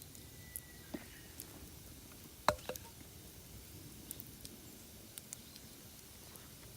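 Damp firewood burning in a mesh fire stand, crackling with scattered sharp pops and one loud crack about halfway through. A faint thin whistle in the first second. The wood is not dry and burns poorly.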